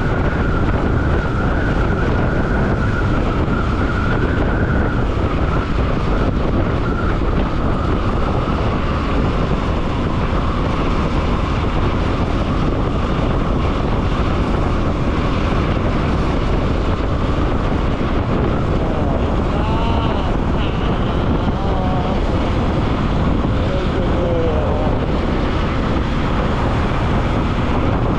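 Wind rushing over the microphone on a moving Bajaj Pulsar NS200 motorcycle, its single-cylinder engine running under a steady rush of wind and traffic noise. A faint wavering tone comes through about two-thirds of the way in.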